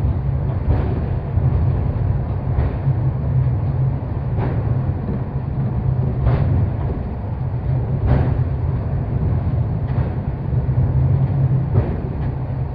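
Mount Takao funicular cable car running uphill, heard from inside the car: a steady low rumble with a short knock about every two seconds.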